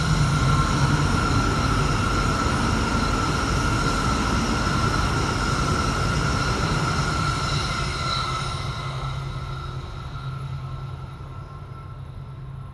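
Shinkansen bullet train passing at speed on elevated track: a steady rushing rumble with a held high whine, fading from about eight seconds in as the last cars go by.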